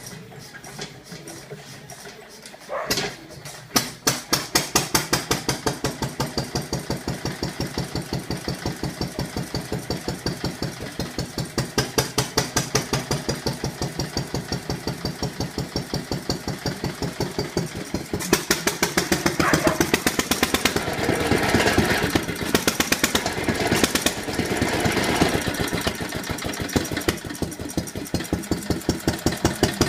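Ronaldson Tippett 3 HP single-cylinder stationary engine being hand-started: a few slow strokes, then it catches about three seconds in and settles into an even, rapid beat of firing strokes. Between roughly 18 and 26 seconds a rattling clatter rises over the beat.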